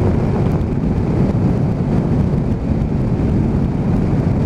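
Strong wind noise on the microphone of a motorcycle ridden at speed without a windscreen, over the steady running of a Honda VFR800's V4 engine.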